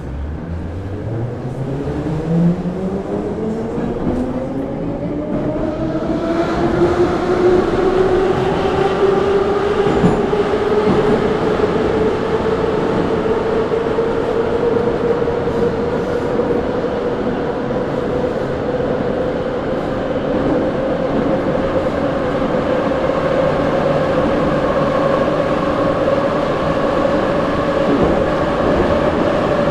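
Moscow Metro 81-717.5A/714.5A subway train heard from inside the car as it pulls away: the traction motor whine rises in pitch over the first several seconds, then levels off into a steady whine at running speed over the rumble of the wheels.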